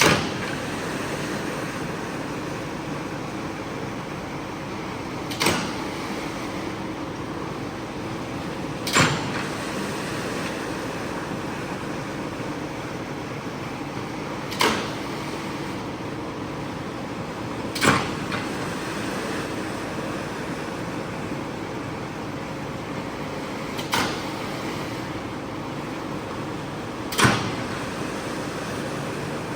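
A machine running steadily with a low hum, broken by a sharp knock every three to six seconds, seven in all.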